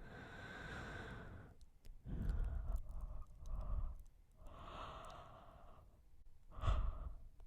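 A person yawning close to the microphone: long, breathy, sigh-like exhalations, with several shorter breaths between them and a brief, louder one near the end.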